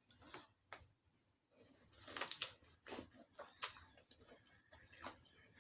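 Chewing a mouthful of chicken and cucumber: a string of irregular wet mouth clicks and smacks, busier after the first second and a half, with the sharpest smack about three and a half seconds in.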